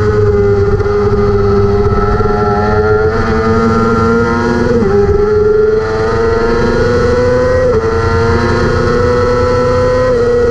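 600-class superbike racing motorcycle engine held at high revs under full throttle. Its pitch climbs slowly and drops sharply at each of three quick upshifts.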